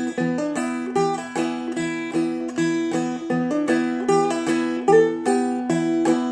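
Seagull Merlin, a four-string fretted dulcimer-style instrument, played in a two-finger clawhammer pattern. The thumb and index finger pluck an even run of quick notes over a steady ringing drone.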